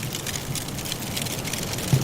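Firewood crackling and popping in a fireplace, many small sharp cracks over a steady low rush of blizzard wind, with one louder low pop near the end.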